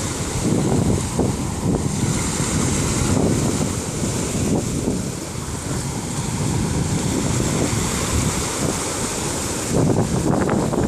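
Sea surf washing onto a beach, with wind buffeting the microphone in uneven gusts.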